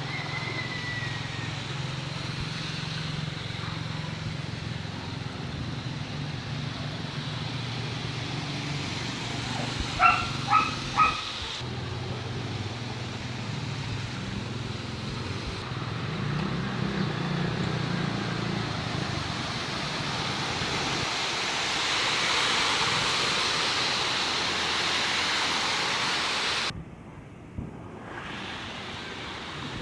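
Steady rain falling, with a low hum under it and a dog barking three times about ten seconds in. The sound changes abruptly twice, and is quieter near the end.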